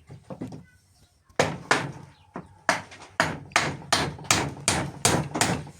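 A series of sharp knocks, about a dozen strikes at roughly two to three a second, starting about a second and a half in after a few fainter knocks.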